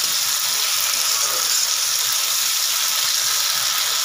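Potato chunks and spice paste sizzling steadily in hot oil in a kadai while being stir-fried with a metal spatula, the masala being cooked down (koshano) with the potatoes.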